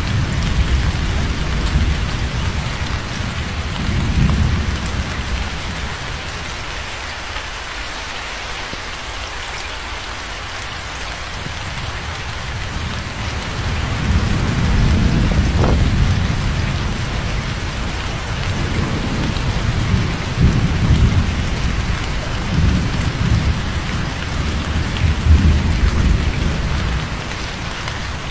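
Steady heavy rain falling on a surface, with rolling thunder rumbling in at the start, fading away, then building again about halfway through with a sharp crack and repeated rumbles until near the end.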